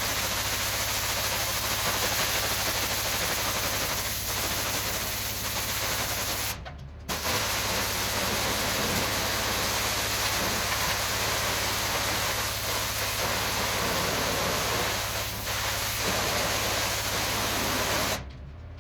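Pressure washer spraying water in a steady hiss, with a low hum running underneath. The spray cuts off briefly about six and a half seconds in, then resumes and stops near the end.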